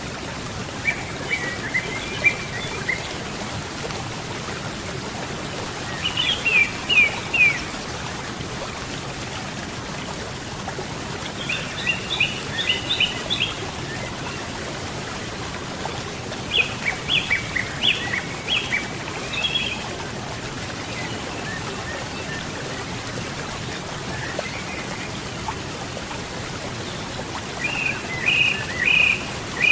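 Steady rush of river water, with a small songbird singing short bursts of quick, high chirping notes five times.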